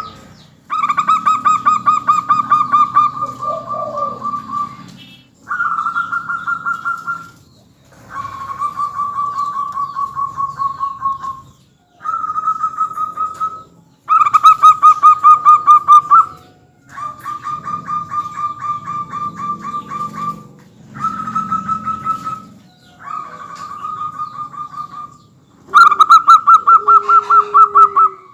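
Zebra doves (perkutut) cooing: about nine back-to-back phrases, each a quick run of short staccato notes lasting one to four seconds, some louder and closer than others.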